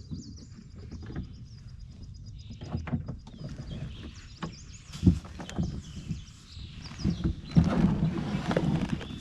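Irregular bumps, knocks and scraping of a kayak being handled, getting louder and busier in the second half.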